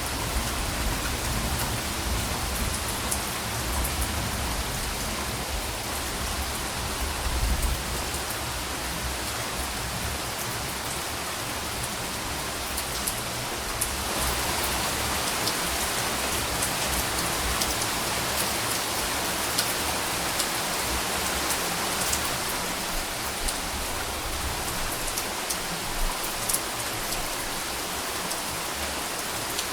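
Steady heavy rain falling, with scattered drops ticking through it. Soft, low thunder rumbles underneath for the first several seconds. About halfway through, the rain grows a little heavier and brighter.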